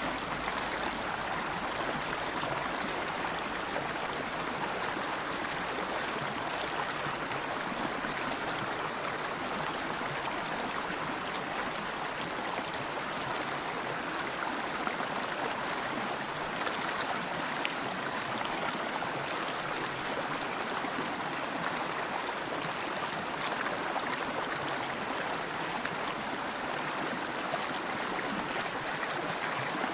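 River water flowing and babbling steadily over rocks, an even rushing with no breaks.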